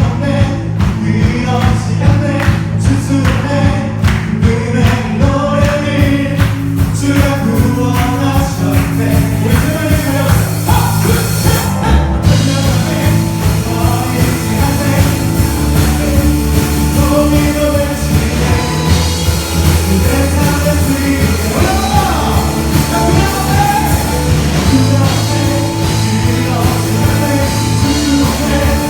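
Live praise band and singers performing a worship song, with a steady beat under the sung melody. A loud cymbal-like crash about twelve seconds in.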